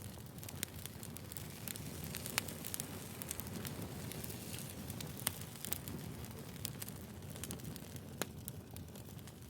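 Wood fire burning: a steady low rush of the flames with frequent small crackles, and a few sharp pops from the logs, the loudest about two and a half, five and eight seconds in.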